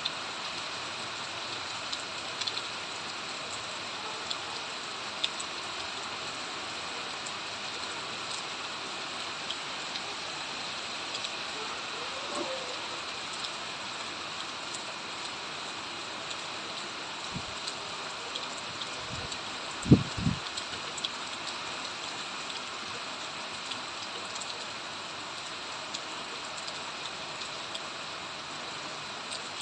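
Steady rain falling, with scattered individual drops ticking on nearby surfaces. About two-thirds of the way through come a few short low thumps, the loudest sounds in the stretch.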